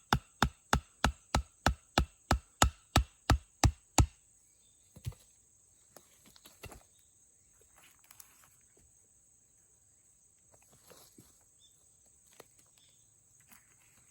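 Rapid chopping: sharp, evenly spaced strikes about three a second that stop about four seconds in, followed by a few scattered knocks and rustles.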